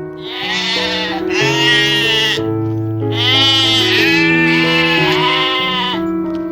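Sheep bleating over and over, a run of quavering calls each about a second long, over background music with held chords.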